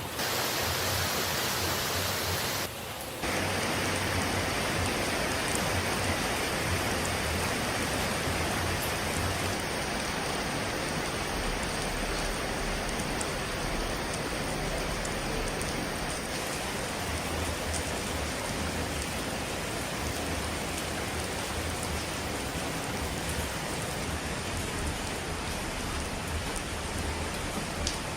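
Steady hiss of falling water. It is brighter for the first few seconds, dips briefly about three seconds in, then runs on evenly.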